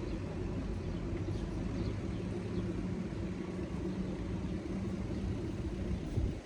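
A steady low engine hum, as from a motor vehicle running close by, over outdoor background noise; it drops off suddenly about six seconds in.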